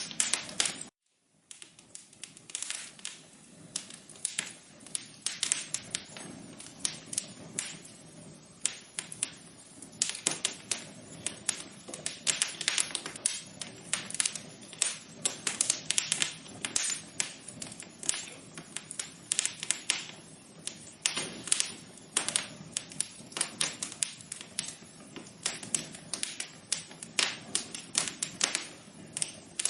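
Wood fire crackling in an outdoor fireplace: a steady run of irregular sharp pops and snaps over a soft low rumble of burning. The sound cuts out briefly about a second in, then resumes.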